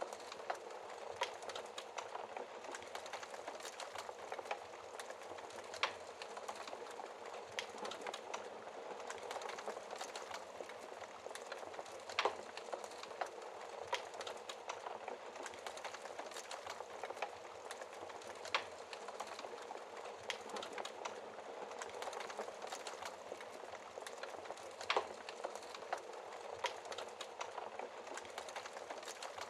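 Wood fire in a fireplace crackling: a steady soft hiss of flames with many small crackles, and a louder pop roughly every six seconds.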